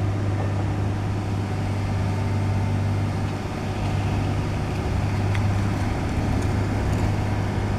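Heavy diesel engine of roadwork machinery running steadily at constant speed, a low even hum.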